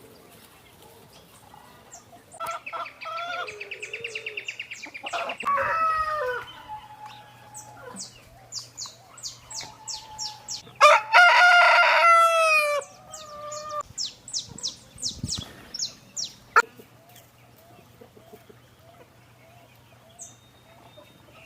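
Flock of free-range chickens clucking and calling, with a rooster crowing loudly about eleven seconds in.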